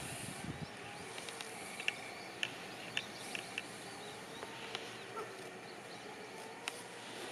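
Outdoor rural ambience: a steady background hiss with scattered short, high chirps of small birds.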